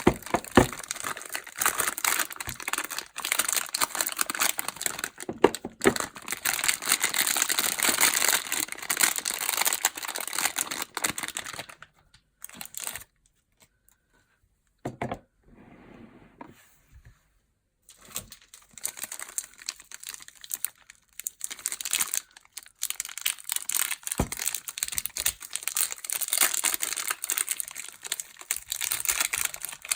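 Soap packaging being crinkled and unwrapped by hand, a dense run of crackly rustling, with a near-silent pause of a few seconds about halfway through.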